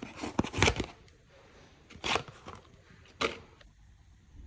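Plastic packaging crinkling as small engine parts are handled: a burst of rustling in the first second, then two short rustles about a second apart.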